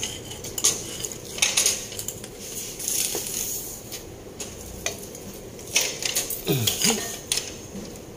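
Irregular metal clinks and clatters of hand tools and engine parts being handled during engine assembly, with a short falling squeak about two-thirds of the way through.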